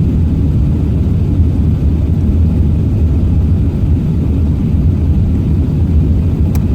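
Airbus A380-800 engines and airflow heard inside the passenger cabin as a steady low rumble after take-off.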